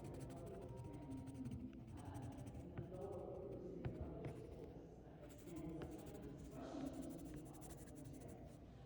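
Drawing implement scratching on paper, colouring in a drawing, with faint voices murmuring in the background.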